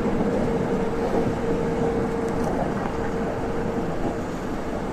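Saitama Railway 2000 series electric train running at speed, heard from inside the car: a steady rumble of wheels on rail with a constant hum.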